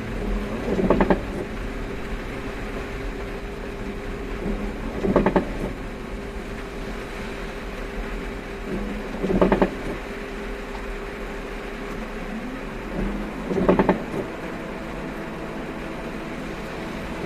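Windshield wipers sweeping across the glass about every four seconds, over a steady hum of the car's engine and road noise heard from inside the cabin.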